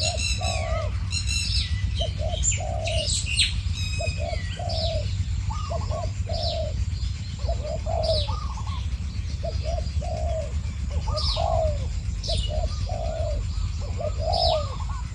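Spotted doves cooing back and forth in short repeated phrases: a decoy dove and a wild one answering it. Sharp falling chirps from other small birds sound above them, over a steady low rumble.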